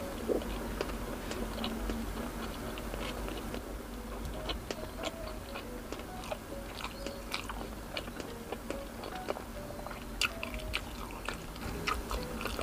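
A person chewing food with the mouth full: steady mastication with many short, irregular wet mouth clicks and smacks.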